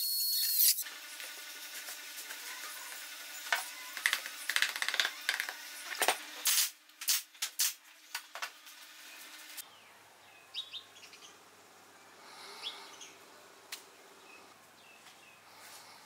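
Small birds chirping and tweeting in short, irregular calls, busiest in the first half and fainter later on. A power drill running at the start cuts off within the first second.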